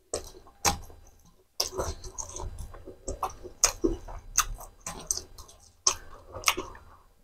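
Close-miked eating sounds: wet chewing and irregular sharp smacking clicks as spicy macaroni is eaten by hand.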